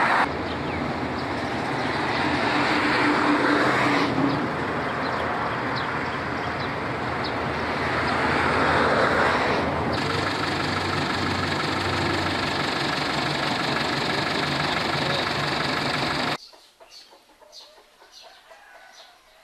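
Vehicle running, with a steady engine hum under loud rushing road noise, cutting off suddenly about 16 seconds in; after that it is much quieter, with faint bird chirps.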